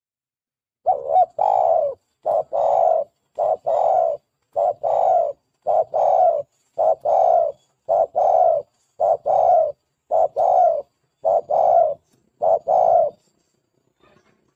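Spotted dove (tekukur) cooing: a short note followed at once by a longer coo, repeated steadily about once a second, about eleven times, stopping about 13 seconds in. It is a dove keepers' lure call.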